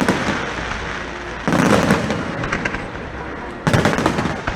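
Fireworks shells bursting overhead: two sudden loud bangs, about a second and a half in and again near the end, each followed by a fading rumble with crackling.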